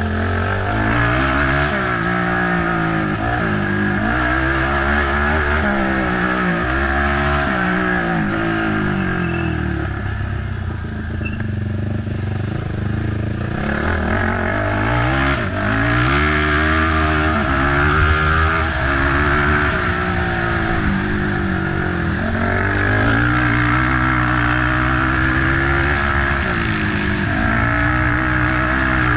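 Race ATV engine revving hard and easing off over and over as the quad is ridden flat out through a woods course, pitch climbing and dropping with each throttle change, easing for a few seconds about ten seconds in.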